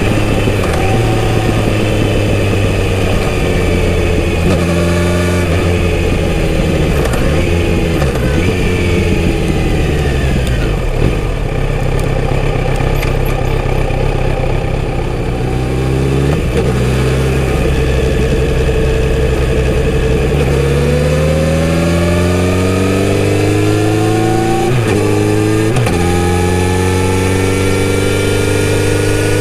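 Kawasaki Z900RS inline-four engine through a full-system exhaust, heard from the moving bike. The note holds steady, falls as the bike slows about a third of the way in, then rises again as it pulls away through the gears, with short breaks in the note at each upshift.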